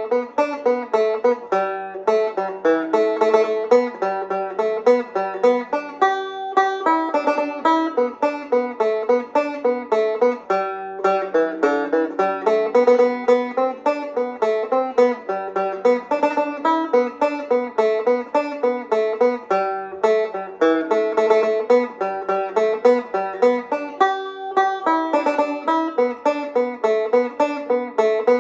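Solo Irish tenor banjo playing a reel at a moderate tempo, a fast unbroken stream of picked notes with ornamentation.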